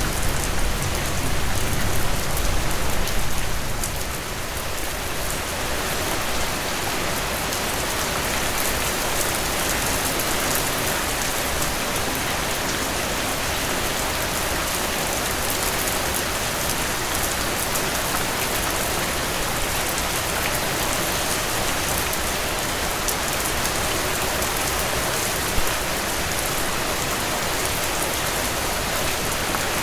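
Heavy rain falling in a steady, dense downpour on surfaces. A low rumble under the rain in the first few seconds fades away.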